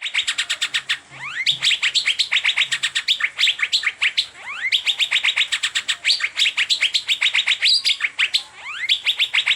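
Asian fairy-bluebird (cucak biru) singing a fast chattering string of repeated chirps, many a second, some sliding down in pitch, with brief lulls about a second in and around four seconds in.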